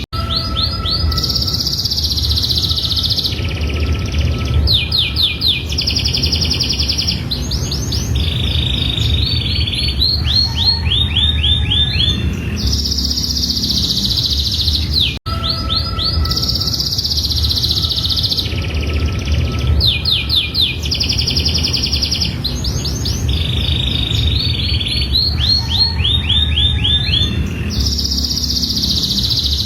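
Domestic canary singing continuously: rapid trills and rolling runs of repeated notes alternating with held high notes, over a steady low rumble. The same song passage starts over about halfway through after a brief cut, as in a looped recording.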